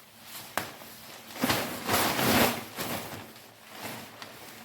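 Nylon tent fabric rustling and crinkling as it is handled and folded up for packing, with a sharp click about half a second in and the loudest rustling in the middle.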